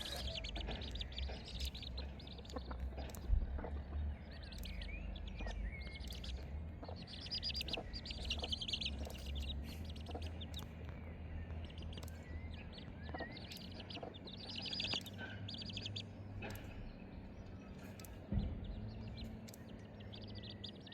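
Birds chirping and singing in short repeated trilled phrases, over a steady low rumble.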